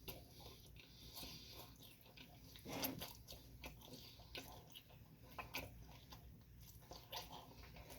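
A person chewing and biting food close to the microphone, faint, with scattered small clicks and one louder bite about three seconds in.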